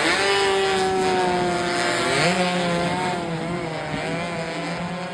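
Racing motorcycle engines at high revs, a steady high drone whose pitch slides down slowly, then steps up about two seconds in.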